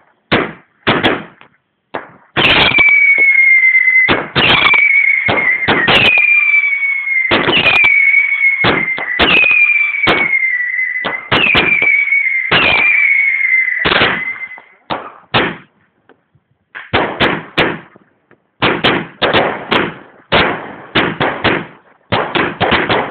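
Fireworks going off in a rapid string of sharp bangs. For about twelve seconds in the middle, a loud whistle that falls slightly in pitch sounds over them, starting again with each bang about every second and a half.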